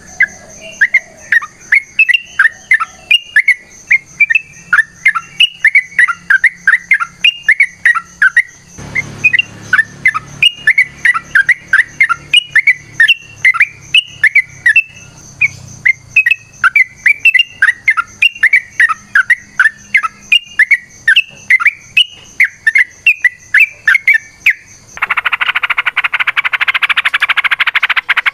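Yellow-vented bulbul (trucukan) singing a long, continuous run of quick chirping notes, repeated in rising-and-falling phrases. About 25 seconds in, the song gives way to a dense, harsh chattering.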